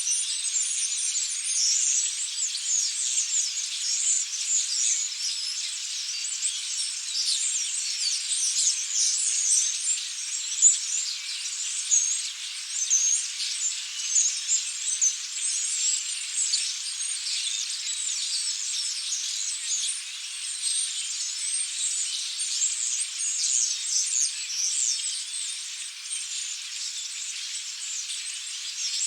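A large flock of European starlings chattering: a dense, high-pitched mass of overlapping chirps and whistles.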